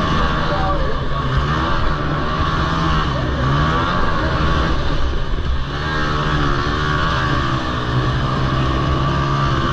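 Several Honda TRX90 quad engines racing together, revving up and down with their pitches rising and falling and overlapping.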